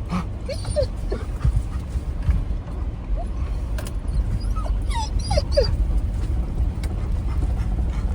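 Bird dog whining in several short, high whines, some sliding down in pitch, excited and eager to get to the birds. A steady low rumble of the moving truck runs underneath.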